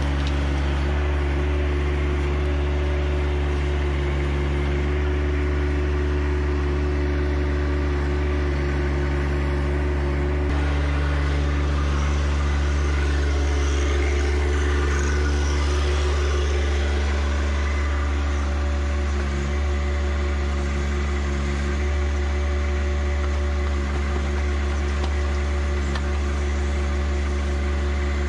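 John Deere 1025R compact tractor's three-cylinder diesel engine running steadily at a constant speed while working the 260B backhoe. Extra noise joins it for several seconds in the middle.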